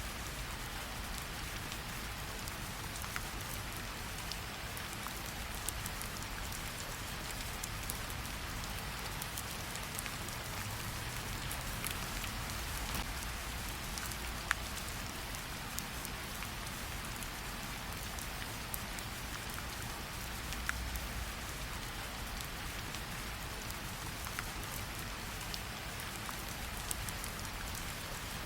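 Steady rain falling in an even hiss, mixed with a fireplace whose scattered sharp crackles and pops stand out now and then.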